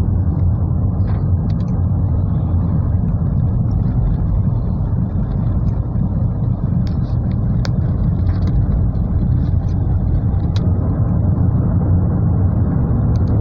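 Steady low rumble of a car's engine and road noise heard inside the closed cabin, with a few faint ticks.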